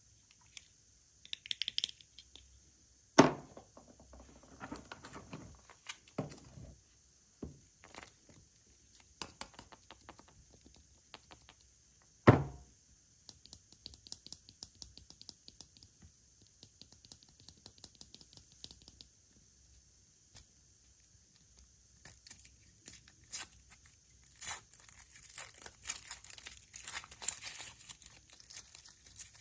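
Packaging being handled by hand, torn and crinkled, with scattered clicks and rustles. Two sharp knocks stand out, about three and twelve seconds in, and the crinkling grows steadier and denser over the last several seconds.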